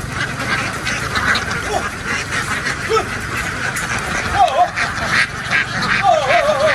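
A large flock of domestic ducks quacking together in a dense, continuous clamour.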